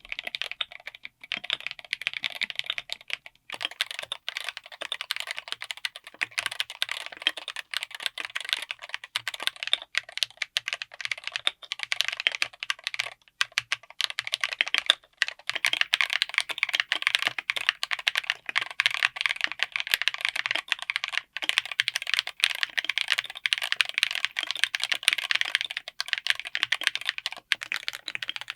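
Fast, continuous typing on a full mechanical keyboard fitted with linear switches: a dense run of keystroke clacks, with a few short pauses between runs.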